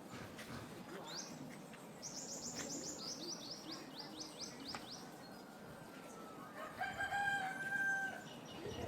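Birds: a small bird gives a fast run of high, sharp chirps, then a rooster crows once near the end, a held call of about a second and a half.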